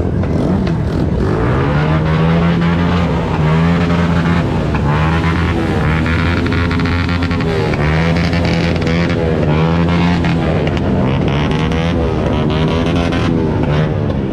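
Motorcycle engine running steadily while riding: a loud, low drone that dips briefly every second or two.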